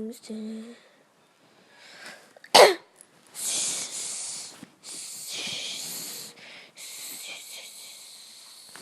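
A person making breathy hissing noises in several long puffs with short breaks, after a loud sharp pop about two and a half seconds in.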